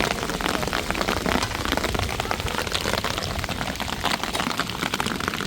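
Heavy storm rain falling, a dense continuous pattering of drops striking a surface.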